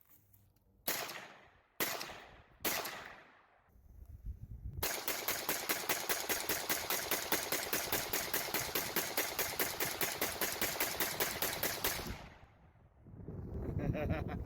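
Gunfire: three single shots about a second apart, then a long rapid burst of about eight shots a second lasting some seven seconds.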